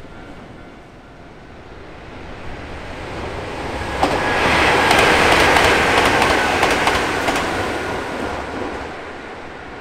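Nankai electric train passing close by. The rumble swells to a peak about halfway through, with a quick run of wheel clacks on the rails, then fades as the train moves away.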